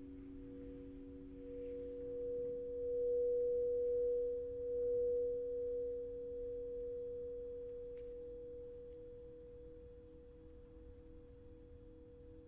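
Sustained ringing drone of several steady pitches held together; the highest swells louder about two seconds in and fades slowly over the following seconds.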